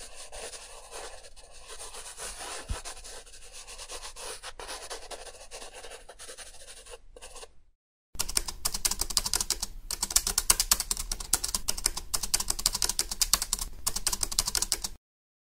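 Two sound effects one after the other. First comes a scratchy rubbing noise for about seven and a half seconds. After a brief silence comes a louder, fast run of dense clicks, like keys being typed.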